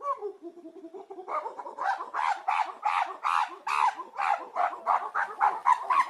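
Animal calls: soft low calls at first, then about a second in a fast run of short, sharp calls, about four a second, each bending in pitch.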